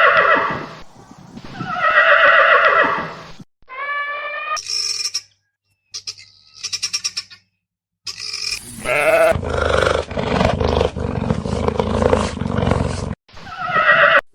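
A string of different farm-animal calls, each cut off abruptly and followed by the next. The longest and loudest is a rough, roaring call in the second half.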